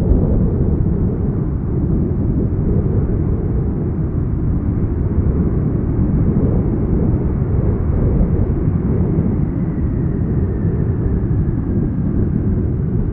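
Jet airliner on landing approach: a steady low rumble of engine noise mixed with strong wind buffeting the microphone, with a faint falling whine from about ten seconds in.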